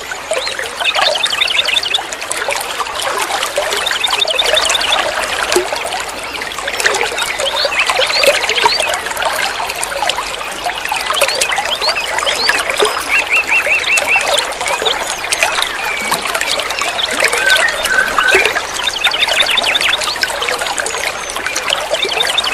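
Water trickling and flowing steadily, with many birds chirping over it and several short, fast trills repeated through the stretch.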